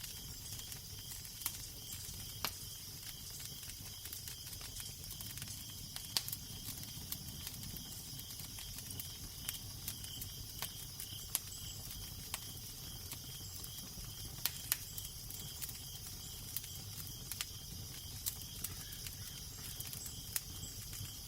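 Crackling fire, with sharp pops and snaps at uneven intervals over a steady low rumble of wind.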